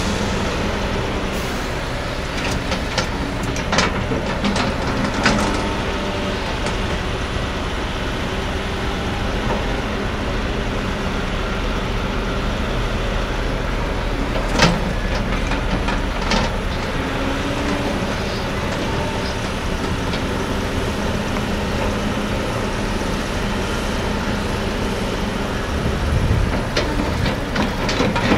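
Caterpillar 324D LN hydraulic excavator's C7 diesel engine running steadily, with a few sharp knocks and clanks over it.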